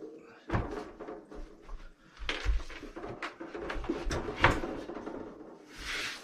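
A Bodega 50L portable fridge-freezer being handled and set on a table: several separate knocks and clunks, then a brief rustle near the end.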